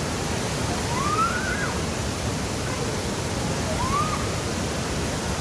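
Waterfall rushing: a steady, even roar of falling water. A few faint short rising calls sound over it, about one and four seconds in.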